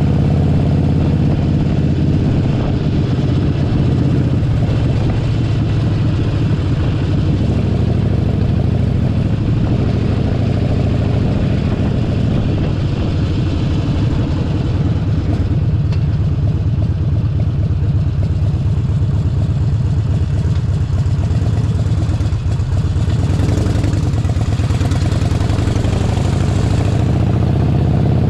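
Harley-Davidson Forty-Eight Sportster 1200's air-cooled V-twin engine running steadily, heard from the saddle. A hiss rises for a few seconds near the end.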